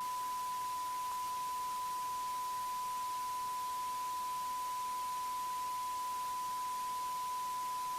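A steady electronic sine tone at about 1 kHz, like a test tone, over faint hiss. It starts abruptly after a cut and holds at one pitch and level throughout.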